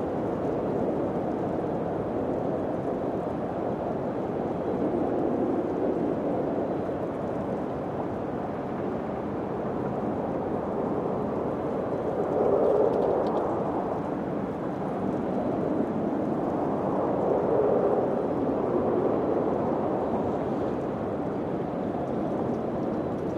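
Wind blowing steadily, with gusts swelling about twelve and seventeen seconds in.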